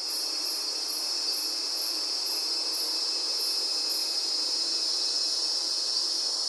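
Rainforest insect chorus: a steady high-pitched drone, with a faint very high chirp repeating about twice a second that stops about four seconds in.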